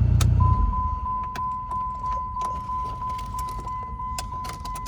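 A 2005 Dodge Neon SRT-4's turbocharged 2.4-litre four-cylinder is switched off about half a second in, its idle rumble cutting out. A steady high electronic warning tone then sounds, with scattered clicks and jingles of keys.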